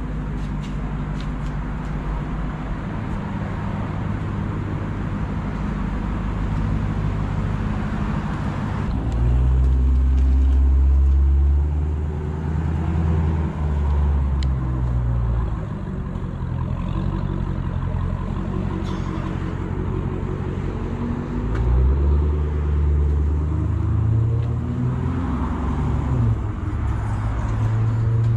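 Dodge Challenger SRT Hellcat's supercharged HEMI V8, mid mufflers deleted, running steadily and then revved up and back down, about a third of the way in and again later on.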